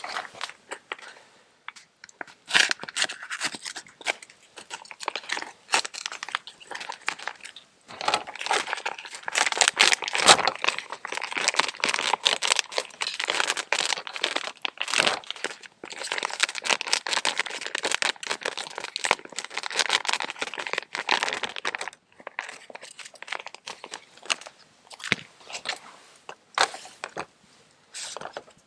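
Crinkling, crunching and tearing handling noise, dense and crackly, heaviest through the middle and thinning out to scattered clicks near the end.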